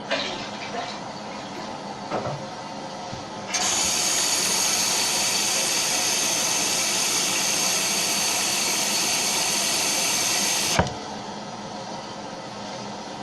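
Kohler Wellworth toilet tank refilling through its fill valve: a steady rush of water, with a louder, higher hiss that starts abruptly about three and a half seconds in and stops with a click about seven seconds later.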